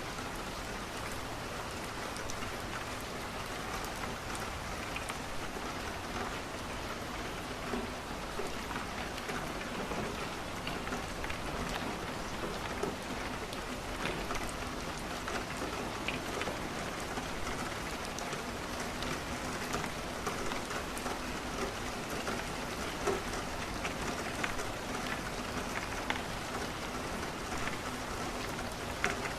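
Steady rain falling against a window, with scattered pops and crackles of burning wood in a fireplace.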